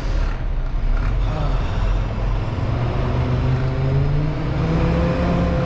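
Semi truck's diesel engine running, its pitch rising slowly over the last few seconds as the revs climb.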